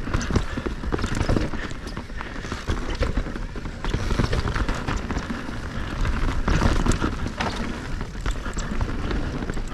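Moustache Game 160 electric mountain bike descending a technical trail: tyres rolling over dirt and rocks, with a steady rumble and frequent irregular knocks and rattles from the bike.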